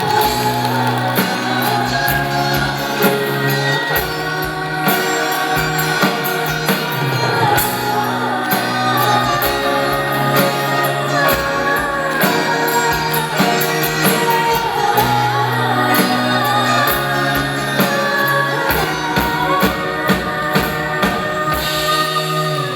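Live pop ballad performance: a woman's voice singing long, gliding notes over band accompaniment with drums.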